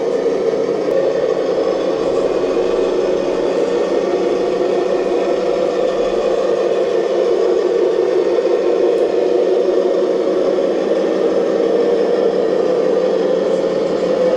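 Remote-control model excavator running, a steady mechanical whir with no pauses or changes.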